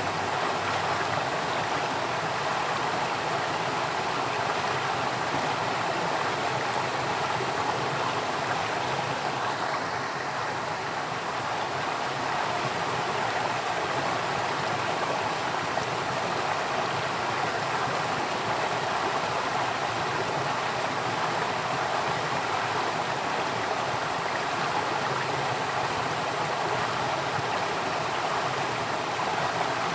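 Running water flowing steadily, an even rushing sound like a stream.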